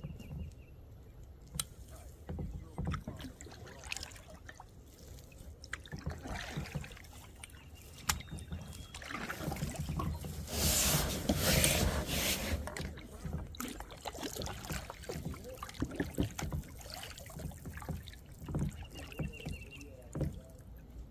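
Paddling a small boat on a river: paddle strokes in the water with scattered knocks and clicks. A louder stretch of splashing comes about ten to twelve seconds in.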